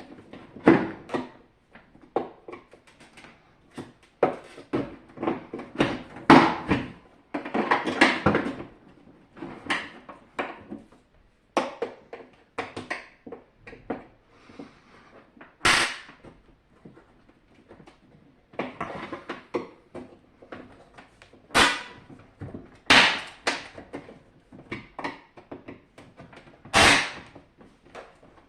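Irregular knocks, clicks and short scrapes of hard parts being handled while a SilverCrest SLE 450 A1 dehumidifier is taken apart. A few sharper knocks stand out, about a third of the way in and near the end.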